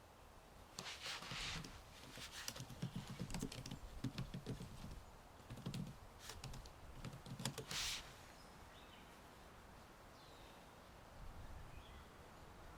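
Typing on a computer keyboard: irregular runs of quick key clicks with a few heavier strokes, stopping about eight seconds in. Faint bird chirps follow.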